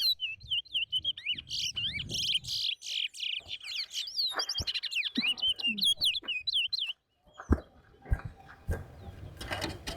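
Caged towa-towa finch singing a long, fast run of high twittering chirps that stops about seven seconds in: one song of the sort tallied in a bird-singing race. A few dull knocks follow near the end.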